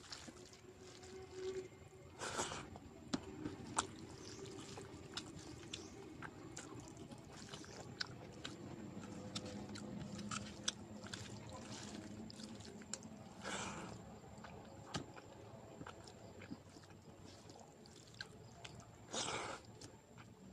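Close-miked eating sounds: a person chewing mouthfuls of rice and vegetables, with frequent sharp wet mouth clicks. Three longer, louder bursts come about two seconds in, around thirteen seconds and near the end.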